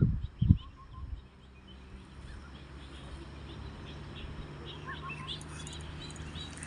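Small birds chirping repeatedly over a steady low hum, with a brief low rumble of wind on the microphone about half a second in.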